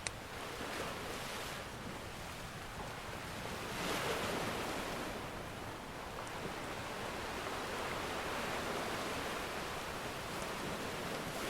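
Ocean surf washing ashore, one wave swelling about four seconds in and another building more slowly later on. A single sharp pop of a crackling wood fire comes right at the start, with a couple of faint ticks later.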